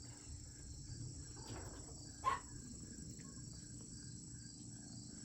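Insect chorus, a steady high-pitched trill, with one brief sharper sound a little past two seconds in.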